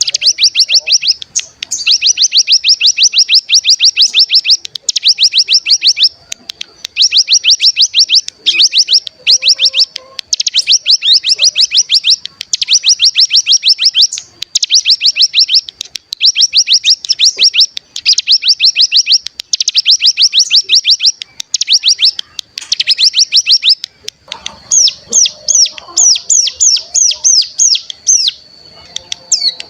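Ciblek gunung (mountain prinia) singing its fast buzzing trill ("ngebren"): rapid repeated notes in bursts of a second or two with short gaps, changing near the end to a slower series of separate, clearer notes.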